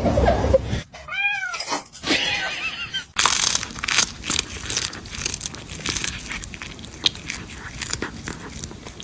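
A cat meowing: one clear meow about a second in and a fainter one just after, followed by a steady scratchy crackling noise with small clicks.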